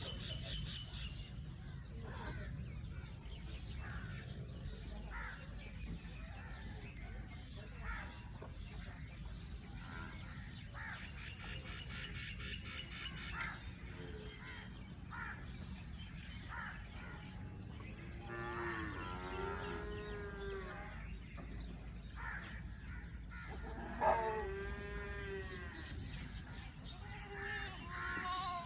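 Two long, drawn-out animal calls, each wavering in pitch: one about two-thirds of the way in and one near the end. Shorter high calls come and go through the first half, and a single sharp knock sounds just before the second call.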